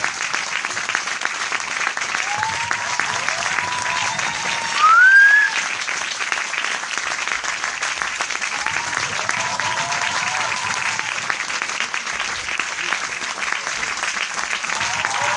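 Crowd applause, dense and steady, with voices cheering now and then and a short rising whistle about five seconds in, the loudest moment.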